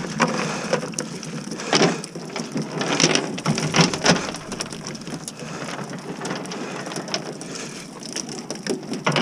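Water splashing and dripping with scattered knocks, as a cast net is hauled up out of the water.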